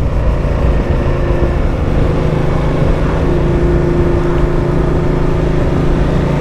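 Ducati Multistrada motorcycle engine running at a steady speed while riding, heard under a dense rush of noise with one low steady hum and a higher held tone.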